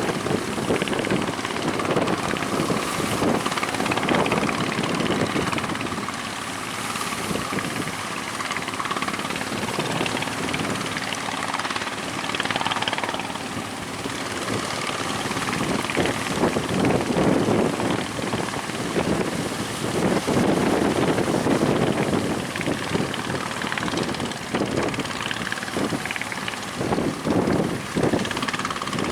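Boat engine running under way, mixed with strong wind buffeting the microphone and the rush of waves.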